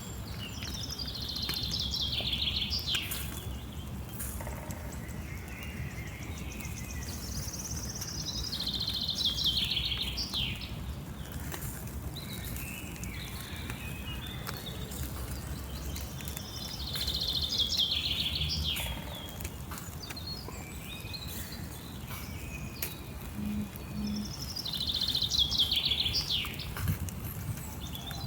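A songbird singing the same short trilled phrase, falling in pitch, four times at intervals of about eight seconds, over a steady low outdoor rumble.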